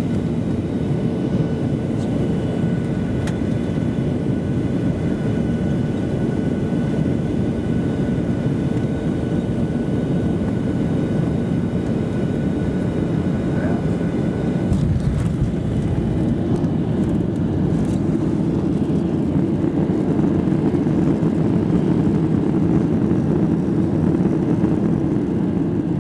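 Boeing 737 cabin noise during landing: a steady rush of engine and airflow noise with a faint high whine, then a sudden jolt about halfway through as the aircraft touches down hard, followed by a louder engine rumble that builds for several seconds as the plane brakes very hard.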